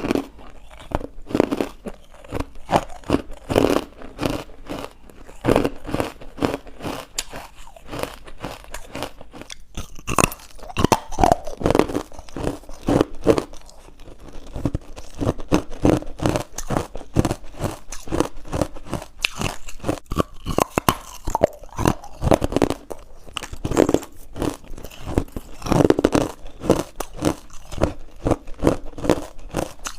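Close-up chewing of chalky, powdery white ice bites frozen from carbonated water: a steady run of crisp crunches, several a second.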